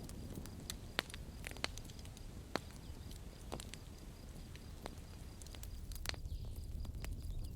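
Campfire crackling: irregular sharp pops and snaps over a low, steady rumble of burning, with a few louder pops in the first three seconds.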